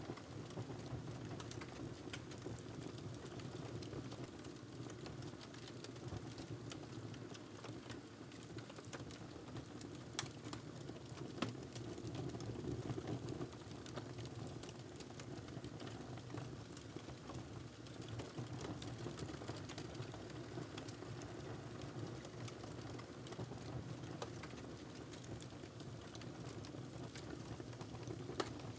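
Wood fire crackling in a fireplace: a steady low rush of flames with frequent small snaps and pops, and a sharper pop about eleven seconds in and another near the end.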